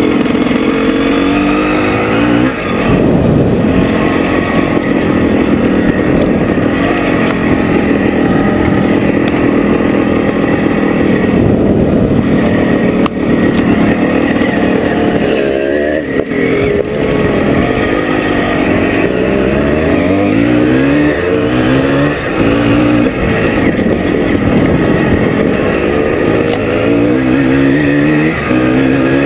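Can-Am 370 enduro motorcycle's two-stroke single-cylinder engine, heard close up from on board, pulling hard along a dirt trail. Its pitch repeatedly climbs as it revs, then drops back as it is shifted up a gear.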